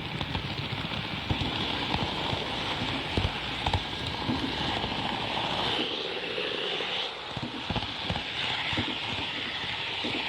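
Kato N-scale Shinkansen model train running on layout track: a steady rolling hiss with irregular small clicks as the wheels pass over rail joints.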